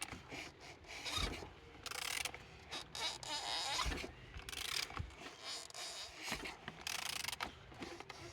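A used 13J7 engine being turned over through its crankshaft: irregular scraping and clicking with a few dull knocks, the engine rotating freely rather than seized.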